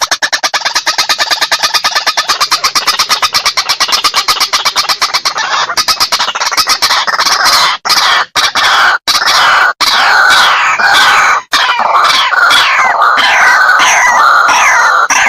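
White-breasted waterhen calls from a hunter's lure recording: a fast, even run of clicking pulses, then loud repeated calls that fall in pitch, several a second, with a few short breaks between them.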